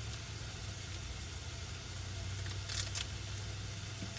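Van engine idling with a steady low hum, with a couple of short clicks about three seconds in.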